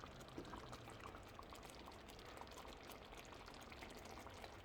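Faint bubbling of food simmering in a pot on the stove, a steady hiss with small scattered pops.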